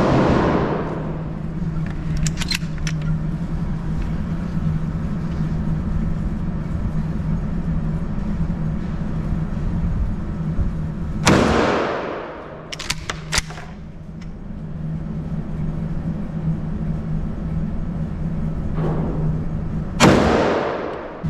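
Three 12-gauge shotgun blasts firing buckshot, each a sharp report with a long reverberant tail: one at the very start, one about 11 seconds in and one about 20 seconds in. A quick clatter of metallic clicks follows a couple of seconds after the first two shots as the gun's action is worked. A steady low hum runs underneath throughout.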